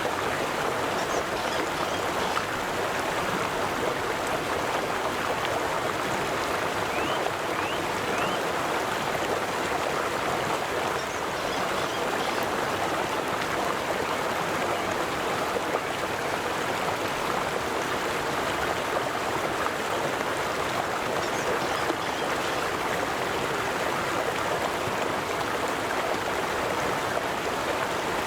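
River water flowing steadily over rocks, a continuous rushing and babbling with no pauses, with a few faint high chirps near the start.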